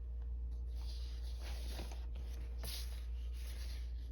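Soft scratchy handling noises from colored pencils being picked out and sorted, twice standing out about one and a half and two and a half seconds in, over a steady low hum.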